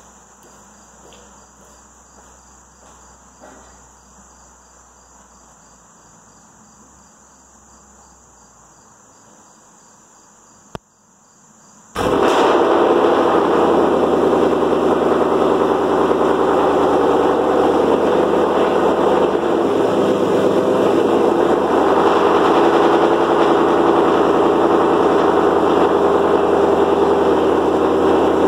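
Ford Mustang GT's 5.0 V8 with Stainless Power catted headers and a Borla ATAK cat-back exhaust cold-starting about twelve seconds in, catching at once and settling into a loud, steady high cold idle. Before it starts, insects chirp faintly and there is a single sharp click.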